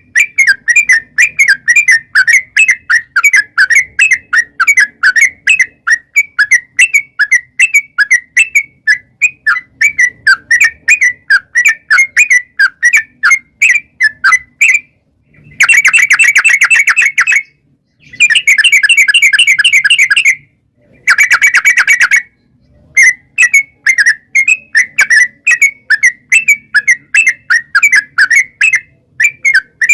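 Yellow-vented bulbul (trucukan) singing: a fast, steady string of short whistled notes, about three or four a second. Near the middle they run together into three rapid rolling trills, the long 'ropel' phrase that keepers play to set a caged bird answering.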